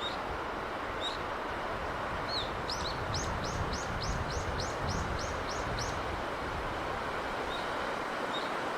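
Steady rush of sea breeze with a small bird calling over it: a few single chirps, then a quick run of about ten repeated notes, about three a second, from about three to six seconds in.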